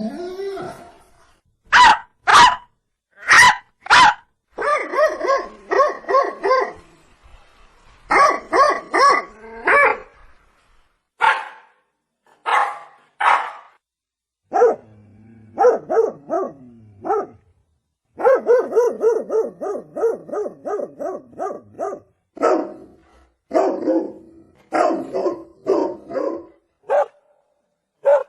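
Dog barking over and over: single sharp barks and short clusters, with a fast run of about four barks a second roughly two-thirds of the way in.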